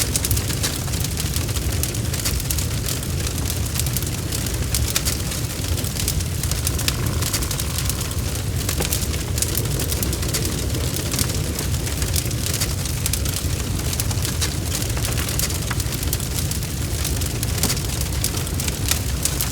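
Wood fire burning in a fireplace: a steady low rumble with dense, irregular crackles and pops.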